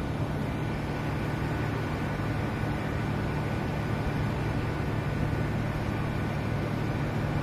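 SMRT C151A MRT train at an elevated station platform giving a steady low hum and rumble, with a faint high whine held at one pitch.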